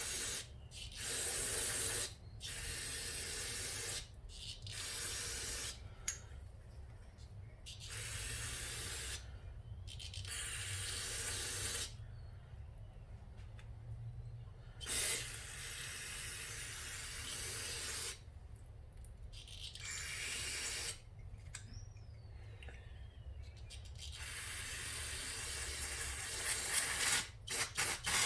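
Aerosol carburetor cleaner spraying in repeated hissing bursts of a second or two each, with a few short quick squirts near the end, as carburetor parts are cleaned.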